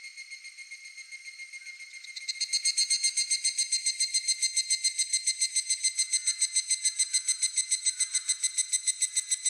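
Singing insects: a close insect trills in a fast, steady pulse of about eight beats a second, coming in loud about two seconds in over a quieter chorus of the same kind of calls.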